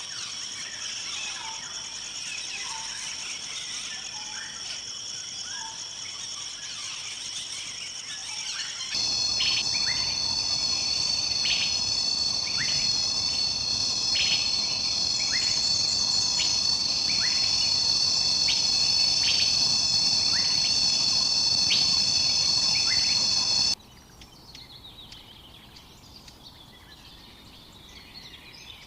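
A steady, high-pitched insect chorus, like crickets, with short falling bird calls repeated about once a second over it. It gets louder about 9 seconds in. About 24 seconds in it cuts off suddenly to quieter, scattered bird chirping.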